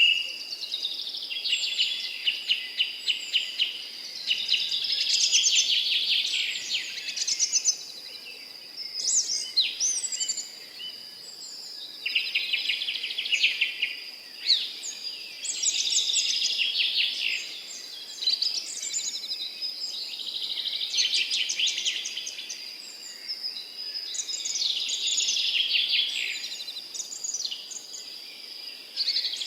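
Several songbirds singing at once, overlapping phrases of rapid trills and chirps that come in bursts of a few seconds each. A thin, steady high-pitched tone runs underneath.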